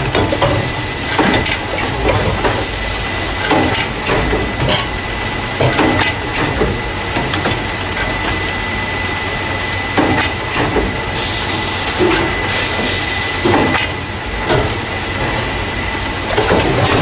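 Carton caser running, the machine that loads paper juice and milk cartons into plastic crates: a steady hum and a constant high whine under irregular knocks and clacks, with two short bursts of hiss.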